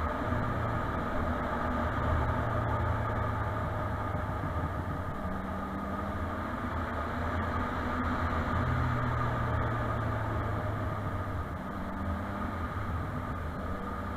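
Motorcycle engine running at a steady cruising speed, its pitch shifting slightly now and then, over an even rush of wind and road noise.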